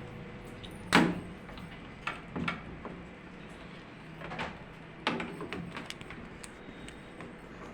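A few sharp knocks and clatters of hard parts being handled, the loudest about a second in and lighter ones scattered after, over a faint low hum.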